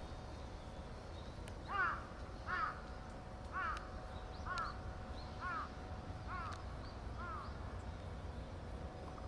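A crow cawing seven times, about one caw a second, the first the loudest and the later ones fainter.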